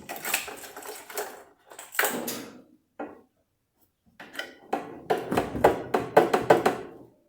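Clicks and clatter of hand tools, screws and plastic parts being worked on a washing machine's motor wiring: screws being taken out and a harness connector pulled apart. The sounds come in short groups, with a pause in the middle and a run of quick clicks near the end.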